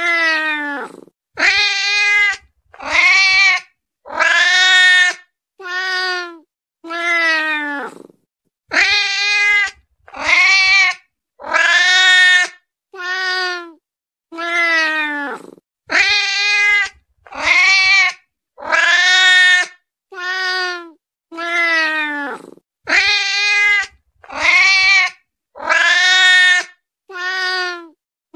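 A hungry cat meowing over and over, about one meow every second or so. Each meow is drawn out and drops in pitch at its end, with short silent gaps between them.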